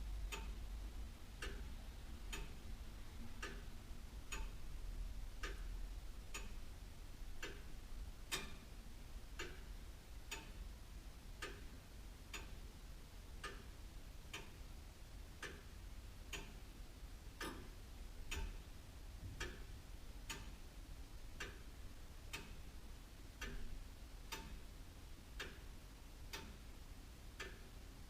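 Antique William Holliwell of Liverpool clock ticking steadily, about one tick a second.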